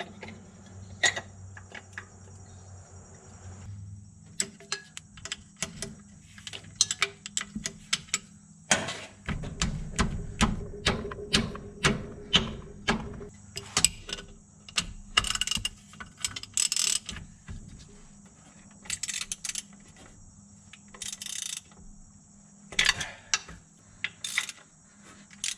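Hand socket ratchet clicking in short quick runs, with knocks and clinks of metal tools, as bolts are tightened on the truck.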